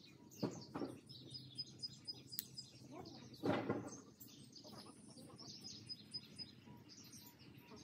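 Small birds chirping, with two short, louder sounds about half a second and three and a half seconds in; the second is the loudest.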